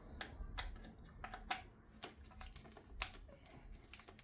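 Irregular sharp clicks and light knocks of a hand tool working metal handguard hardware as a clamp bolt is done up.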